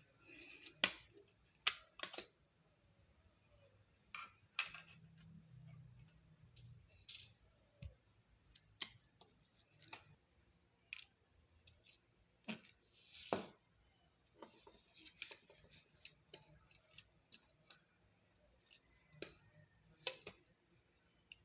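Faint, irregular small clicks and brief scrapes as the plastic and metal parts of a laptop DVD drive are handled and worked on by hand.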